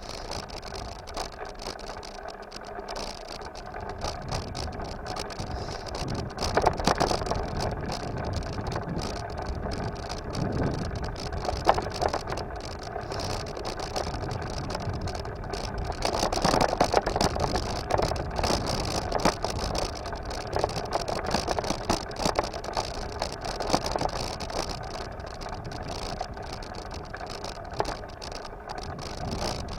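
Bicycle being ridden: a steady rolling noise with many small clicks and rattles, and a few louder knocks along the way.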